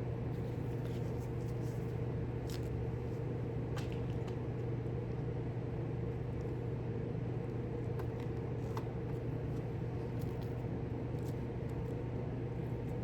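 Steady background hum at an unchanging pitch, with a few faint, brief clicks and taps scattered through it.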